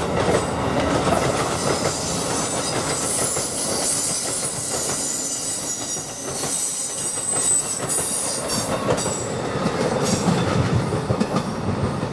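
A train rolling past: a steady rumble with wheels clicking over rail joints and a thin, high wheel squeal above it.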